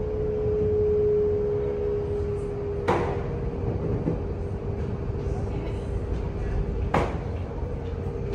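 Cabin running noise of a Taiwan Railway EMU800 commuter train at steady speed: a low rumble from the wheels on the rails with a constant humming tone, and two sharp knocks about four seconds apart.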